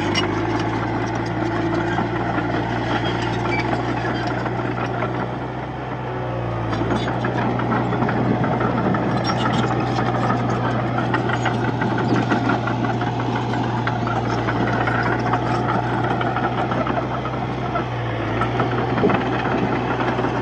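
Diesel engine of a D31-P bulldozer running steadily under load while pushing soil, dipping slightly in level about six seconds in.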